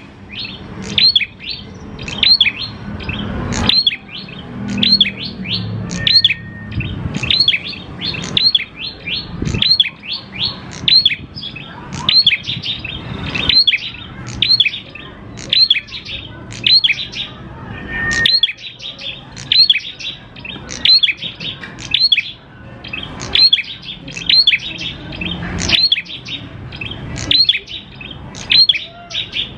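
Prenjak klawu calling: a fast, unbroken series of sharp chirps, about two a second, each sweeping up high.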